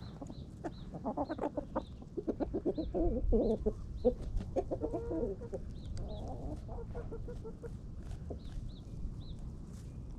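Flock of backyard hens clucking while they feed on kitchen scraps. The clucking is busiest in the first half, with short high chirps and scattered clicks throughout over a low wind rumble.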